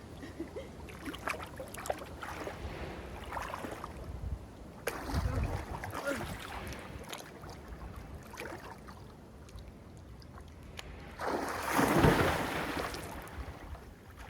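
Water splashing in a swimming spring, with a moderate splash about five seconds in and a louder, longer splash near the end as a person jumps into the water.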